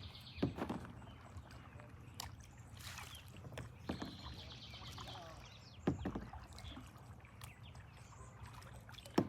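Kayak paddle strokes: the blade dips and splashes about four times, a couple of seconds apart, over a steady low rumble, with a high rapid trill in the middle.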